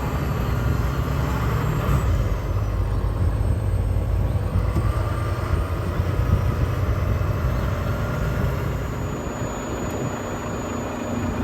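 Semi truck running down the road, a steady low engine and road drone heard from the driver's cab.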